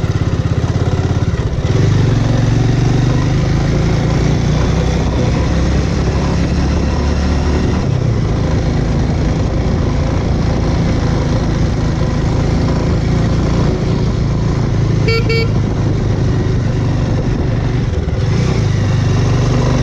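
Bajaj Avenger motorcycle's single-cylinder engine running while riding, its pitch shifting several times as the throttle changes. A short horn toot comes about fifteen seconds in.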